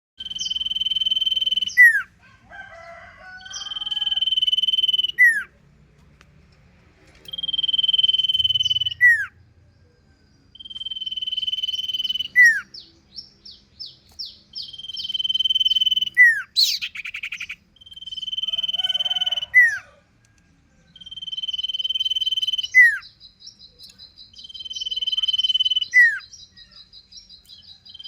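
Common iora (sirpu) singing: a long, steady, high whistle held for about a second and a half and ending in a quick falling note, repeated every few seconds. Short chirps fill the gaps, with a harsh burst about two-thirds through and a rapid high trill near the end.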